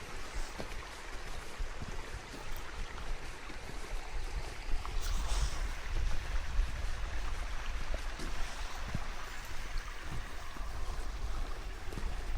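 Creek water rushing steadily, full from a week of rain, with wind buffeting the microphone in a low rumble.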